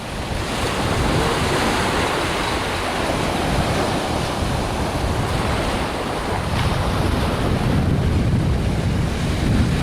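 Surf washing onto a sandy beach, a steady rushing noise, with wind buffeting the microphone in a low rumble.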